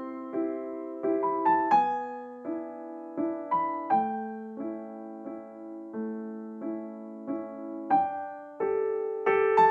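Background piano music: a slow, gentle melody of single notes and chords, each note fading after it is struck.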